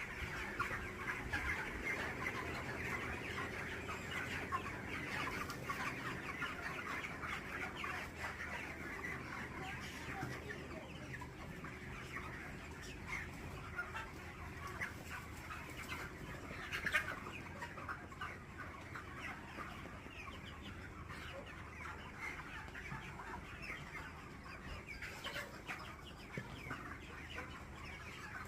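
A flock of chickens clucking and calling continuously, many short calls overlapping, with one louder call about 17 seconds in.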